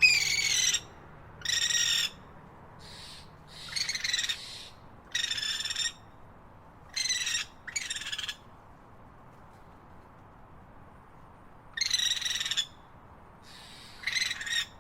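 A bird calling over and over: about ten short calls, each under a second long, with a pause of a few seconds in the middle, over a faint steady background of ambient noise.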